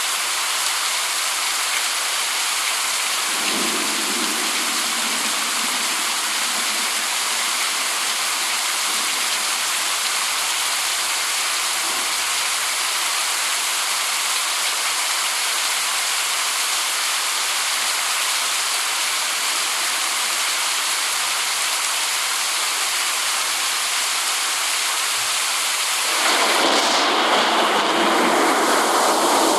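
Steady rain, an even dense hiss. About 26 seconds in it turns louder and fuller, lower in pitch and with less hiss, like heavier rain or rushing water.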